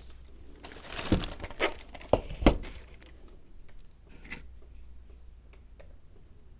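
Crinkling and rustling of material being handled, with four sharp knocks in quick succession, the last the loudest, followed by faint scattered clicks.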